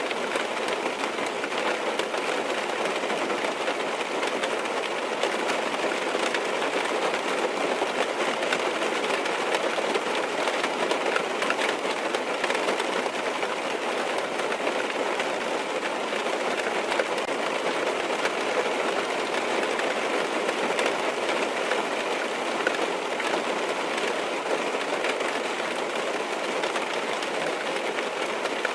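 Steady rain drumming on a car's roof and windows, heard from inside the car: a dense, even patter of drops.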